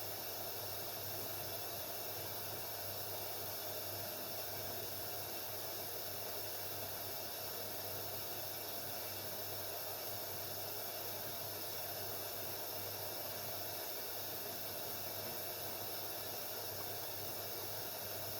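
Haier 7.5 kg front-loading washing machine running mid-cycle on a delicate wash: a steady hiss over a low hum, without any rhythmic tumbling or sloshing.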